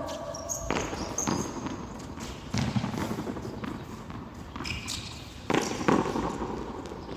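Frontón handball rally: a ball struck by hand and hitting the frontón wall and floor, heard as several sharp smacks at uneven gaps, two of them close together near the end.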